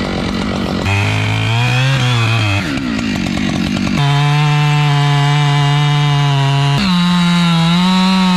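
Husqvarna 592 XP two-stroke chainsaw running in a cut through heavy wood, its engine pitch holding steady and jumping abruptly to a new level a few times.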